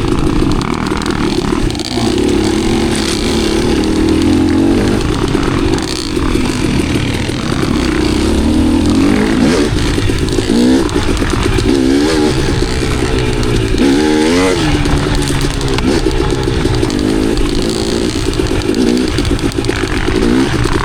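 KTM enduro dirt bike engine running hard, its pitch rising and falling in quick throttle blips as the rider picks through singletrack.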